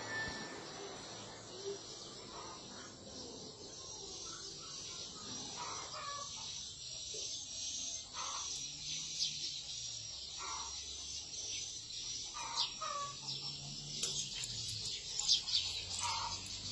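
Birds calling: short calls every couple of seconds over a steady high chirring, with a few clicks and rustles near the end.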